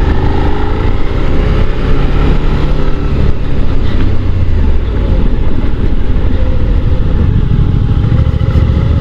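Motorcycle engine running as the bike climbs a rough, rickety gravel track, under a heavy steady low rumble of wind and road noise, with the engine note drifting a little up and down.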